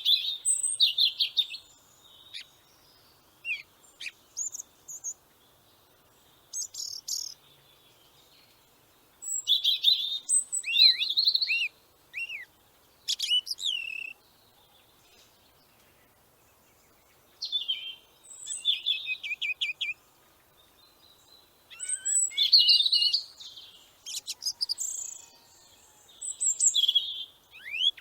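Small birds chirping and calling in bursts of one to three seconds, high-pitched, with quick falling notes among the chirps and near-quiet pauses between bursts.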